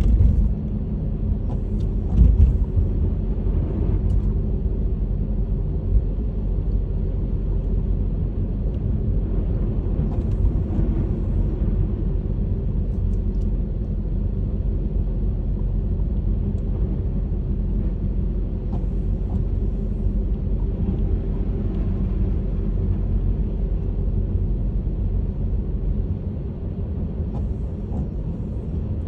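Honda HR-V driving through snow: steady low road and engine rumble, with a few brief thumps in the first few seconds.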